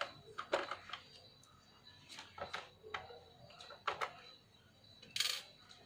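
Scattered clicks and taps of laptop case parts and small tools being handled during reassembly, with a short, louder rasping burst a little past five seconds in.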